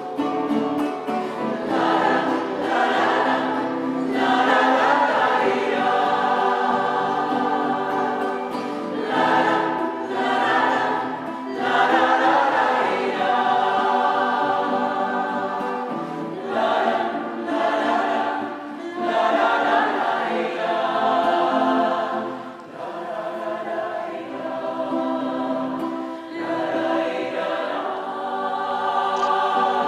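A choir singing in several voice parts, in long held phrases.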